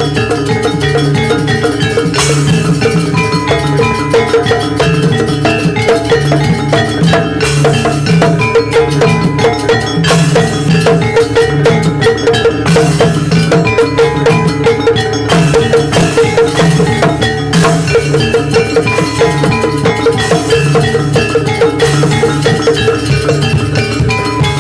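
Live Javanese gamelan-style jaranan music: metallophones and gongs struck in a fast, steady, repeating rhythm over drumming.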